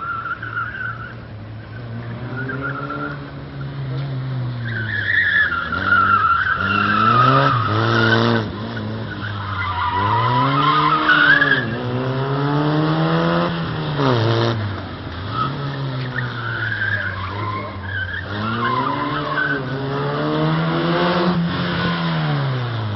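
Fiat 126p driven hard through tight turns: the engine revs up and drops back again and again, and the tyres squeal in several of the turns.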